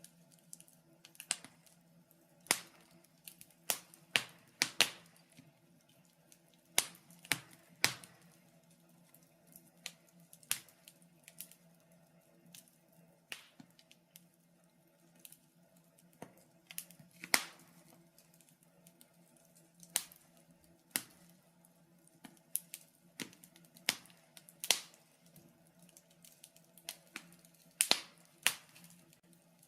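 Wood fire in a fireplace crackling: irregular sharp pops and snaps from the burning logs, a few of them much louder, over a faint steady low hum.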